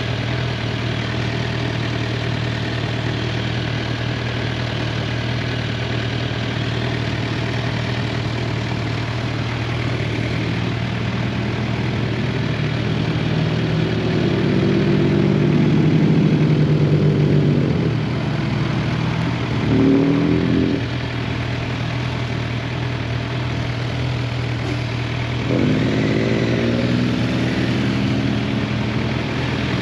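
2023 Suzuki GSX-R 750's inline-four engine running steadily, with the engine note swelling under throttle about halfway through, a quick rev a few seconds later, and another rise and fall near the end.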